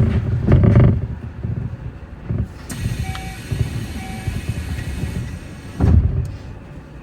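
Keio Inokashira Line electric train running, heard from the front of the train: a steady low rumble with heavy low thumps about half a second in and again near the end, and two faint short beeps in the middle.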